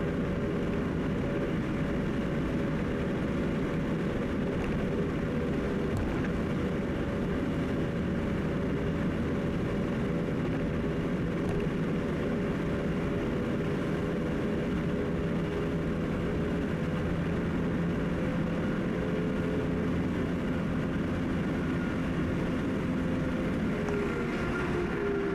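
Steady road and engine noise of a car driving at highway speed, with engine tones that fall in pitch near the end as the car slows.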